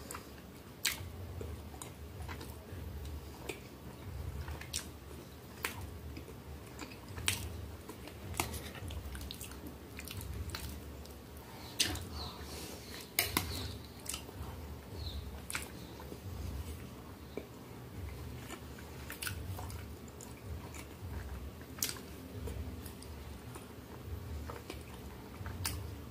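A person chewing mouthfuls of soft meat ravioli in a creamy white sauce, close to the microphone, in a steady rhythm, with sharp wet clicks every few seconds.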